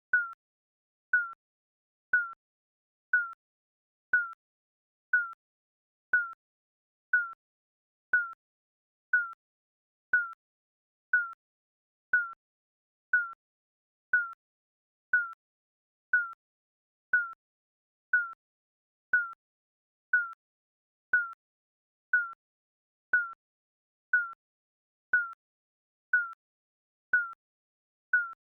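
Digital countdown timer beeping: one short, single high beep each second, each fading quickly into silence before the next.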